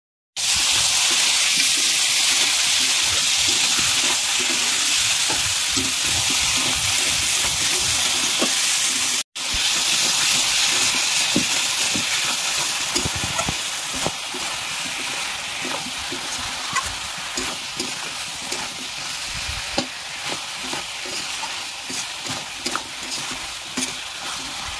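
Chicken and potato pieces in masala sizzling as they fry in a kadai, with a spatula scraping and knocking against the pan as they are stirred. The sizzle cuts out for a moment about nine seconds in and eases off gradually after that.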